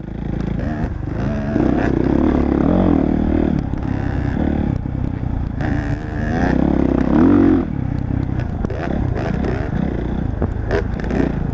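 Off-road motorcycle engine riding a woods trail, revving up and easing off with the throttle; the engine pitch climbs twice, once about two seconds in and again about six seconds in. Scattered clicks and rattles are heard near the end.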